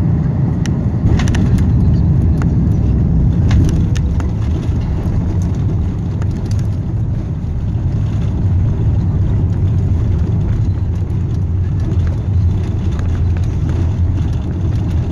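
Steady low rumble of an Airbus A330-300 airliner heard from inside the economy cabin as it comes in to land, with scattered light clicks and rattles in the first few seconds.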